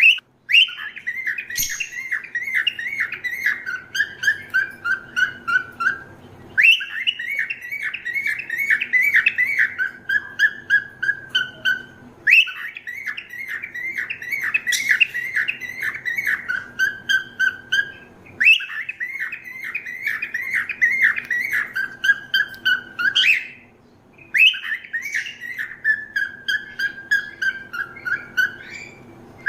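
Cockatiel chirping in quick runs of notes that step down in pitch. The same phrase of about five seconds comes five times, roughly every six seconds, with short pauses between.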